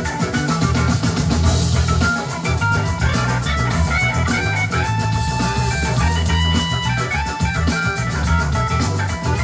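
A rock band playing live in concert: guitar lines over drums and a steady, heavy bass.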